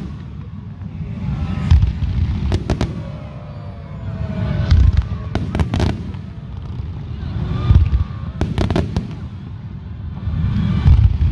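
Fireworks display: aerial shells bursting with deep booms every second or two, with sharp crackling reports between them.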